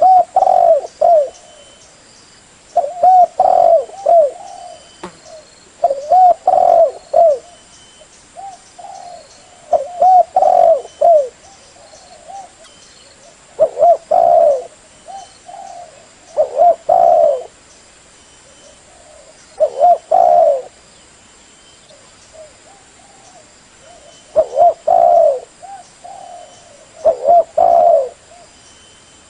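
Spotted dove (tekukur) cooing: phrases of several short, low coos about every three seconds, with a longer pause about two-thirds of the way through. It is the call used to lure other spotted doves.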